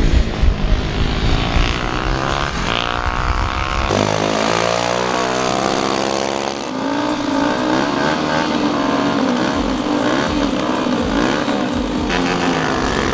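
Racing superbike engines at high revs, several passing with their pitch sweeping up and down. From about seven seconds in, one engine holds a steadier note.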